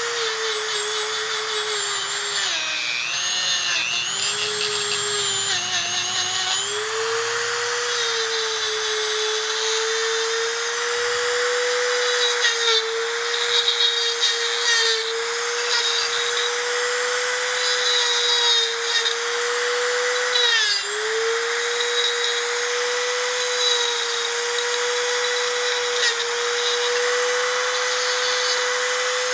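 Dremel rotary tool running at high speed with a steady high whine, cleaning corrosion off a faucet part. Its pitch sags and wavers a few seconds in, and dips briefly again about 21 seconds in, as the bit bears into the metal.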